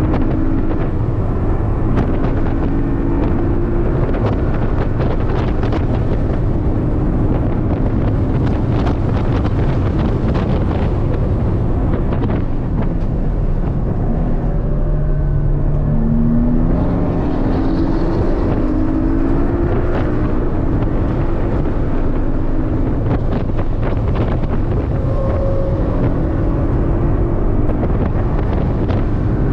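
Porsche 718 Cayman's 2.0-litre turbocharged flat-four heard from inside the cabin while lapping a race track, its pitch climbing with the revs and dropping back at each quick PDK gearshift. About halfway the revs fall low for a slower corner, then climb steadily again as it accelerates out, over a constant bed of road and wind noise.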